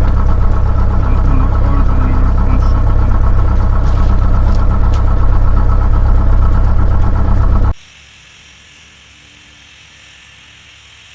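Cessna 172's piston engine running steadily, loud and low with a dense steady drone. It cuts off abruptly about three-quarters of the way through, leaving only a faint hiss.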